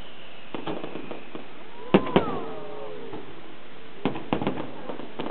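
Aerial fireworks shells bursting: a few small cracks, then two loud bangs close together about two seconds in, and a quick cluster of bangs about four seconds in.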